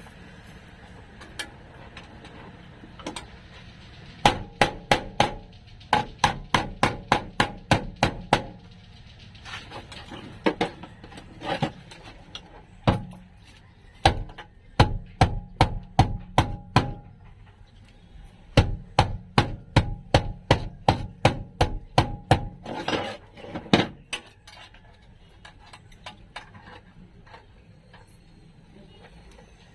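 Hammer striking sheet steel in quick runs of blows, about three a second, each with a short metallic ring, in four bursts separated by brief pauses: shaping a floor patch panel for welding.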